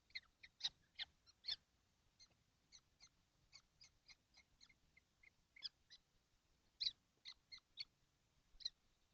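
Young kestrels in a nest box giving short, thin calls, about twenty in quick irregular succession, with a few louder ones among them.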